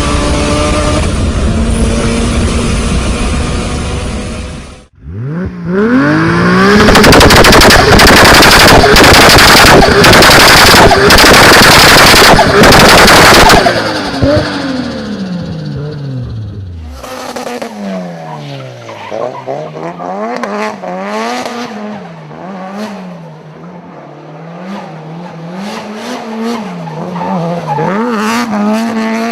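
Several high-performance car engines, cut one after another. About five seconds in, an engine revs hard and breaks into a long run of rapid, gunfire-like bangs from the exhaust. Its pitch then falls away, and another engine is blipped up and down over and over, with pops and crackles from the exhaust.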